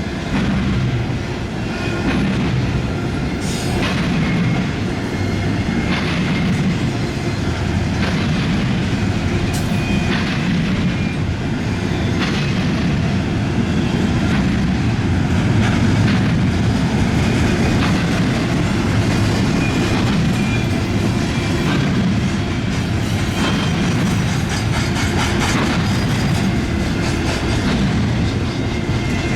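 Long CSX intermodal freight train's cars rolling past steadily, their wheels clacking sharply about every two seconds as they cross the diamond, with a faint wheel squeal over the rumble.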